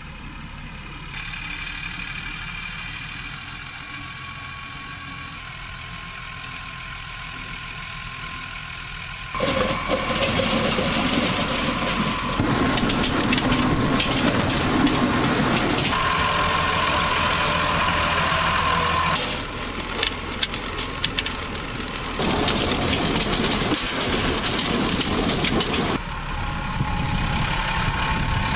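Tractor engine running with a steady hum. About nine seconds in, a much louder clattering rattle takes over, the sound of the tractor-mounted EZOX SS-2 potato harvester working. The rattle shifts abruptly in level several times.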